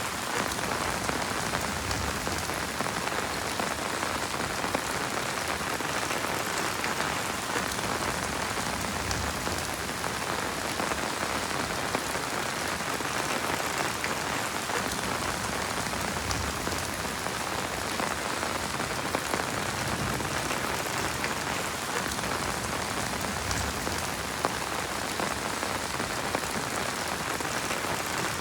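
Heavy rain falling steadily: a dense, even hiss with many small sharp drop ticks scattered through it.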